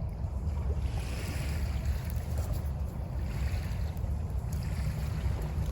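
Surf washing onto a beach in swells about every two seconds, over a steady low wind rumble on the microphone.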